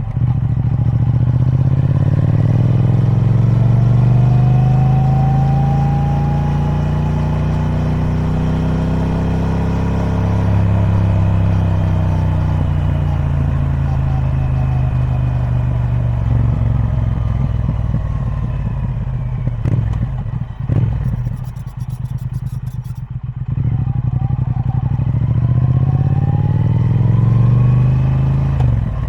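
Triumph Speed Twin 1200's 1200cc parallel-twin engine through its stock exhaust, riding: the pitch climbs over the first few seconds, holds, then falls away. It drops low with a few sharp clicks about twenty seconds in, then climbs again under acceleration near the end.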